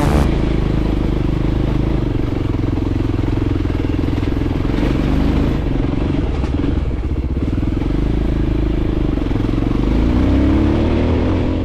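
Voge 300 Rally motorcycle's single-cylinder engine running under way, rising in pitch near the end.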